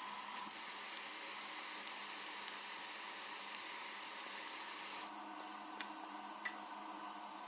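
Steady high hiss, with a thin high-pitched tone that sets in about five seconds in and a few faint clicks.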